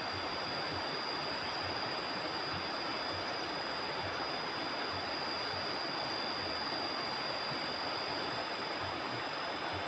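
Steady rushing of flowing river water, with a thin steady high tone above it.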